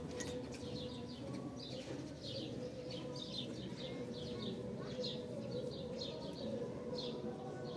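Small birds chirping repeatedly in quick short calls, over a steady faint hum.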